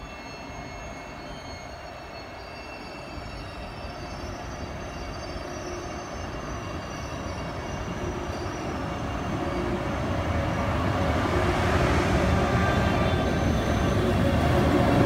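FS E.414 electric locomotive hauling an InterCity train as it pulls out and moves toward and past the listener, growing steadily louder throughout. A rumble of wheels on rails rises, with a whine of several steady high tones above it.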